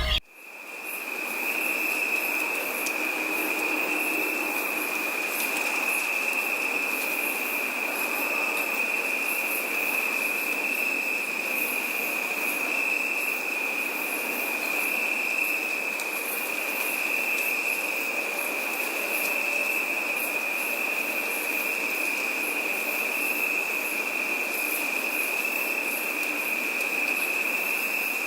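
Insect chorus in a forest: a continuous, steady high-pitched trill, with a fainter, pulsing buzz of other insects far higher up.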